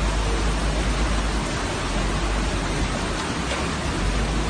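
Floodwater rushing past in a steady, loud roar of water noise, with a deep rumble underneath.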